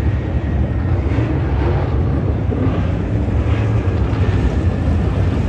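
Dirt late model race car engines running steadily.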